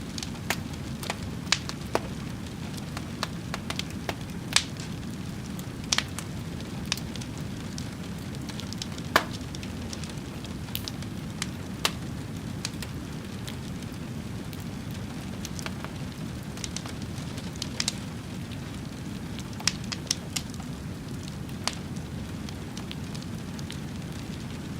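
Wood fire burning: a steady low rumble of flames with irregular sharp crackles and pops from the burning wood, a few of them louder than the rest.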